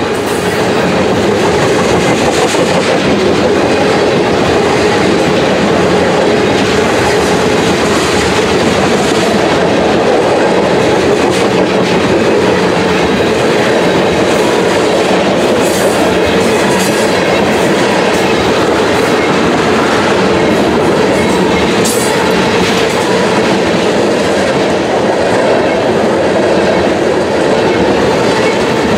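A freight train of tank cars rolling past close by: a loud, steady rumble and clatter of steel wheels on the rails, with a clickety-clack as the wheels cross rail joints.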